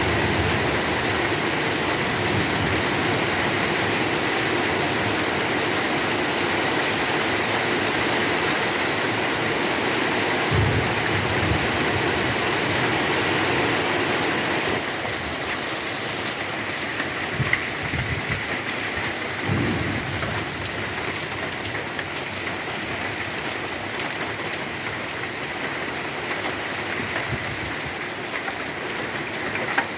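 Heavy rain pouring down steadily, easing a little about halfway through, with a few short low thumps near the middle.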